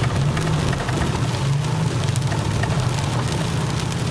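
Truck engine running steadily, heard from inside the cab, with an even hiss of rain and scattered light ticks of raindrops on the truck.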